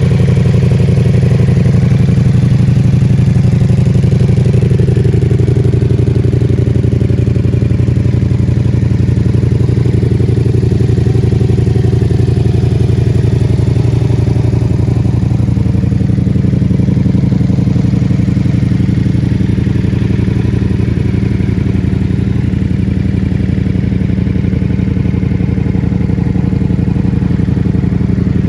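Ducati Multistrada V4S's 1158 cc V4 engine idling steadily through a full-system Akrapovic exhaust.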